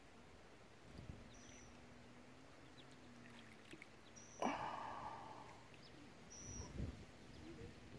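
Quiet riverbank ambience with a bird's short, high, steady whistled note repeating every two to three seconds. About four and a half seconds in, a sudden rush of noise starts and fades over about a second, and a few low thumps follow near the end.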